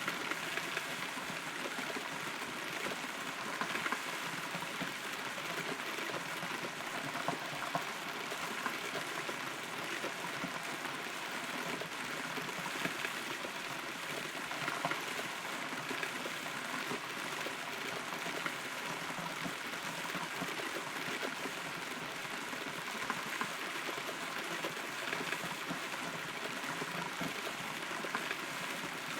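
Steady rain pattering on and around a hollow rotten tree, heard from inside the trunk, with scattered louder drips.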